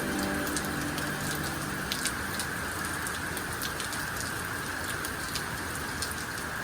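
Heavy rain pouring down steadily, with scattered sharp taps of drops landing close by. Fading background music ends about a second in.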